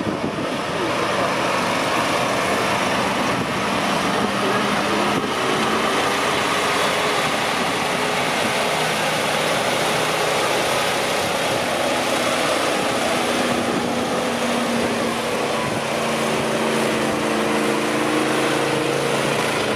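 Truck engine running steadily under load, rising in revs over the last few seconds.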